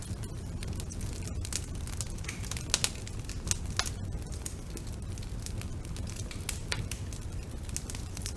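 Wood fire burning in a fireplace: a steady low rumble with irregular crackles and pops of the burning logs, a few louder snaps about three seconds in.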